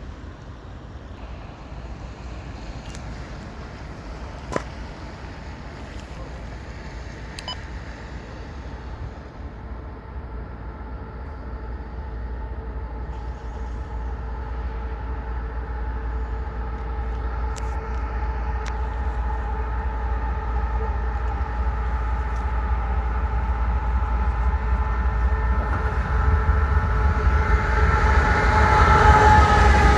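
Approaching diesel-hauled freight train: a steady low rumble grows steadily louder, with several steady locomotive tones building in the second half and dipping slightly in pitch near the end as the lead locomotive draws close.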